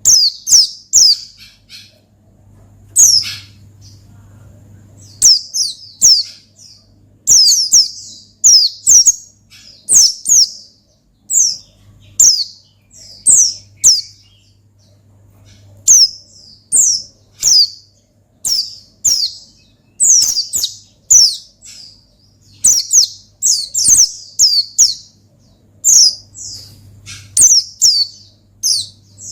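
Pleci (white-eye) singing in its ngalas wild style: quick runs of one to four high, falling chirps with short pauses between. This is the lively, rival-calling song that pleci keepers play to set other birds singing.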